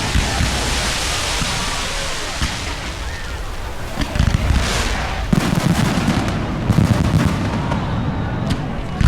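Aerial fireworks bursting: crackling and hissing at first, then from about five seconds in a dense, rapid run of low booms.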